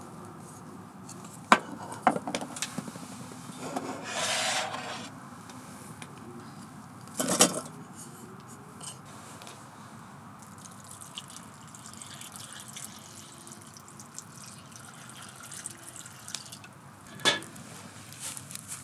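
Camp cooking gear being handled: scattered light clinks and knocks, a short rush of liquid-like noise about four seconds in, and a louder knock around seven seconds in.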